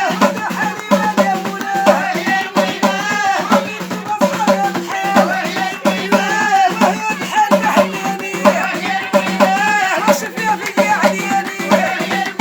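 A voice singing a curving, ornamented melody over hand percussion and shaker rattles.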